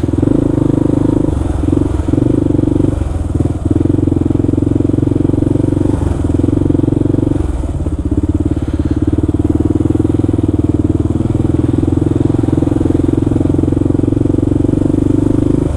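Kawasaki KLR650's single-cylinder engine running under way, a steady drone, with the throttle eased off briefly a few times in the first half.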